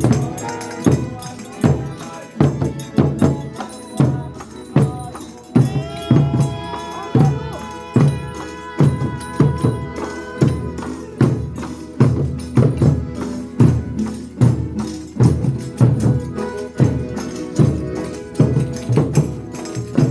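Folia de Reis folk music: a drum beats steadily at about two strokes a second, with tambourine and a held melody over it.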